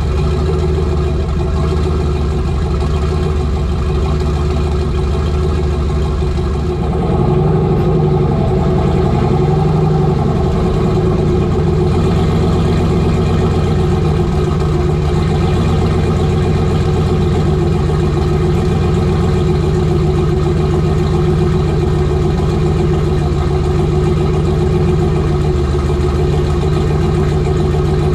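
Turbocharged pickup truck engine running steadily. It steps up in level and pitch about seven seconds in, then holds.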